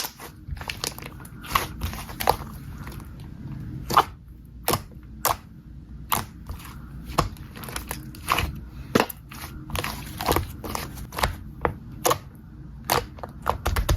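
Slime being squeezed and pressed by hand, giving irregular crunchy pops and clicks, about one or two a second.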